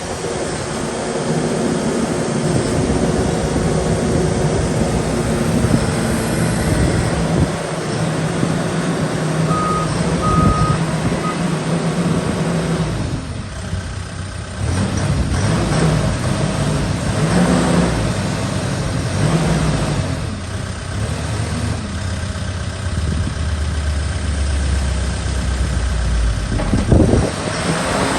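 Case 770FX backhoe loader's diesel engine running, its pitch rising and falling several times in the second half as it is revved under work. About ten seconds in, three short beeps sound.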